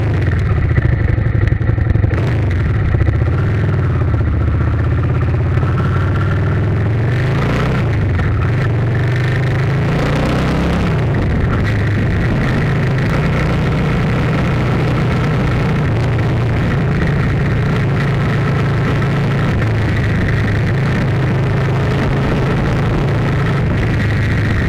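An engine running steadily, its pitch rising and falling briefly about a third of the way in.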